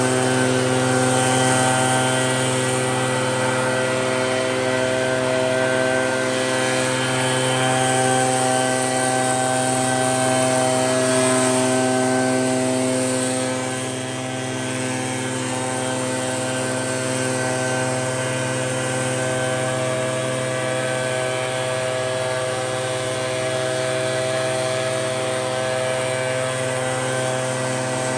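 Two-stroke gas backpack leaf blower running steadily at high throttle, blowing snow: a constant engine drone with a fan whine and a rush of air, dipping briefly about halfway through.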